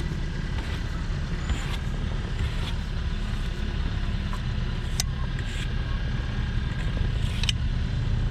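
Car engine idling with a steady low rumble, with two sharp clicks, one about five seconds in and one near the end.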